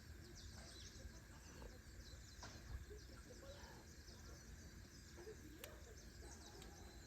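Faint outdoor ambience: small birds chirping in quick high twitters, over a low steady rumble, with a couple of soft clicks.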